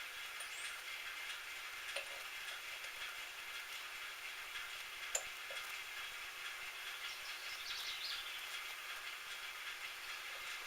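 Metal lathe running, a steady mechanical hiss with a few light clicks and a brief higher-pitched squeal about eight seconds in.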